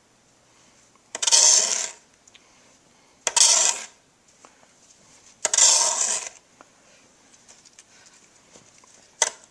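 Snow shovel scraping and scooping snow off pavement, three strokes about two seconds apart, each a harsh scrape under a second long, with a short click near the end.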